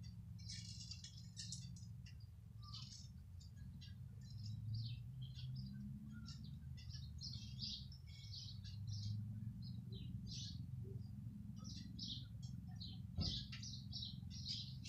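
Small birds chirping and twittering in many short, high calls over a faint, steady low hum, with a single knock near the end.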